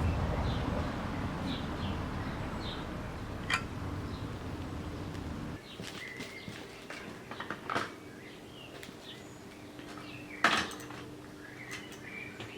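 A low steady rumble that cuts off abruptly about five and a half seconds in, a few sharp metallic clinks, the loudest near the end, and faint bird chirps in the background.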